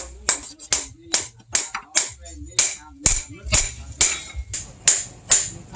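Hammer blows on steel at the anvil, forging a blade from bearing steel: about three ringing strikes a second, at an uneven pace.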